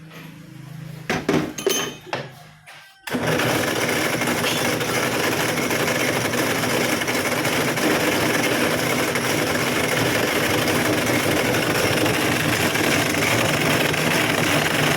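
A few sharp knocks, then a machine starts abruptly about three seconds in and runs steadily with a loud, even noise.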